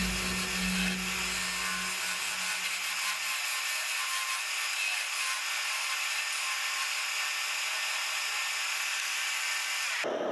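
Woodturning on a wood lathe: a steady rubbing hiss of work on the spinning walnut piece. A low motor hum dies away about three seconds in, and the rubbing cuts off abruptly near the end.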